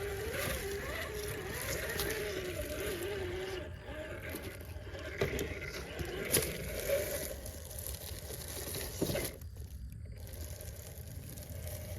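A 1/6-scale RC rock crawler's motor and gears whine, the pitch wavering up and down with the throttle, then fall quieter. A few sharp knocks come as the truck works over rocks.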